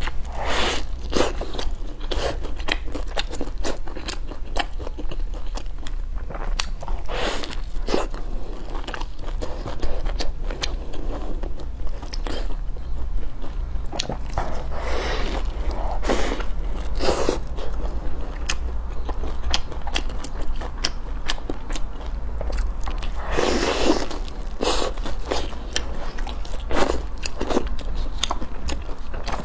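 A crisp green onion pancake being bitten and chewed close to the microphone, with repeated crunches and crackles throughout.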